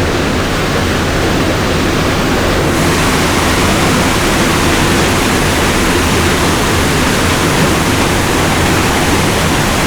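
Water of a jungle waterfall rushing steadily over rocks, a loud unbroken noise; the hiss in the upper range grows fuller about three seconds in.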